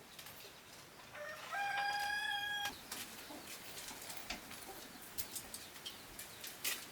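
A rooster crowing once, starting about a second in: a single call of about a second and a half that rises at first and then holds steady. Light scattered clicks and taps follow.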